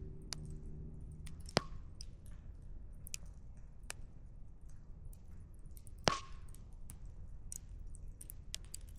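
Campfire firewood crackling, with irregular small snaps and two louder pops, one about a second and a half in and one about six seconds in, over a low steady rumble.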